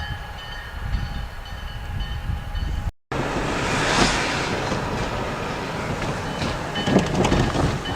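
EMD SD40-2 diesel locomotive, with its 16-cylinder two-stroke engine, running by as a steady low rumble. The sound drops out briefly about three seconds in, then comes back louder and fuller.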